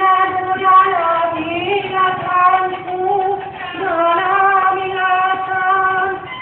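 A high, thin voice singing long held, wavering notes in a dangdut-style melody, with no clear words, in two phrases with a short break in the middle.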